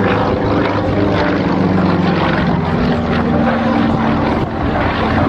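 Yak aerobatic planes' nine-cylinder radial engines and propellers droning in flight, the pitch drifting slowly up and down as they manoeuvre.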